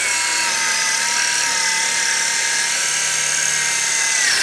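Electric power saw running with a steady high whine over a loud hiss, cutting a board to length; the whine dips slightly and the noise stops abruptly near the end.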